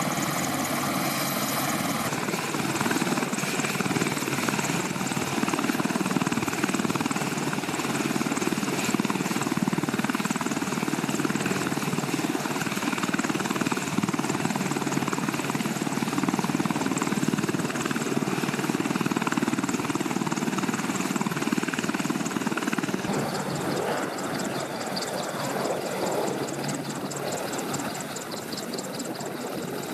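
Military helicopters running on the ground, turbine whine and rotor noise steady and loud. About three-quarters of the way through the sound changes and a fast rhythmic rotor beat comes through.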